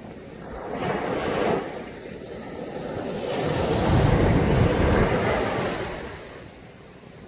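Sea waves breaking on a beach: a small wave about a second in, then a bigger one that builds and breaks around four to five seconds in before washing out.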